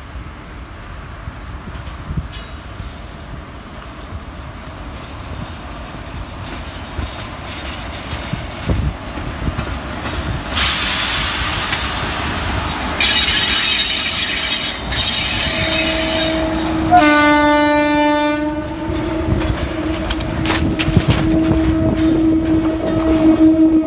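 A WAG-7 electric locomotive hauling a freight train on the parallel track: the rumble and clatter of the wheels grow steadily louder as it comes alongside, with a loud hiss from about ten seconds in. From about fifteen seconds in, train horns sound long held blasts that last to the end.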